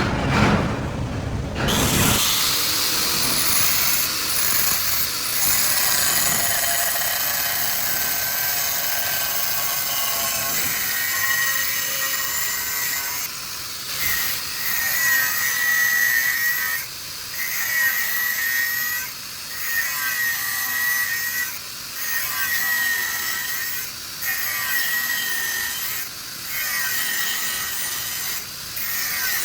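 A power tool working bearing steel. It spins up with a rising whine about two seconds in, then runs with a steady high whine, broken by short regular dips every couple of seconds later on as the tool bites and eases off.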